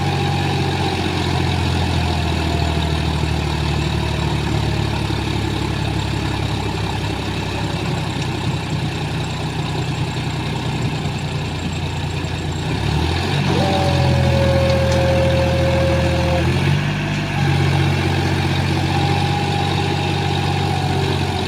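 John Deere 5205 tractor's diesel engine running steadily. About two-thirds of the way in it rises in pitch and runs louder for about three seconds. It then dips briefly and settles back to a steady run.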